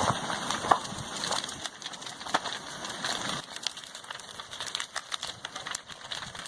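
Irregular crackling and snapping as lava overruns a house and sets its wood burning. The sound is denser in the first half and thins out after about three and a half seconds.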